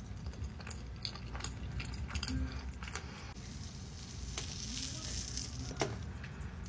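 Close-miked food ASMR: irregular crisp crackles and clicks, denser and hissier for a second or so a little past the middle.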